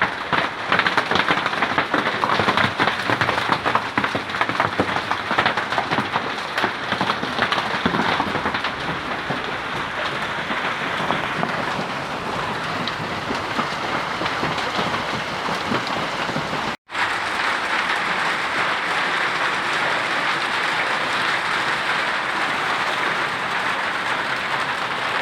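Hailstorm: hailstones and heavy rain pelting down, a dense clatter of countless small impacts that eases into a steadier rushing downpour, with a split-second break about 17 seconds in.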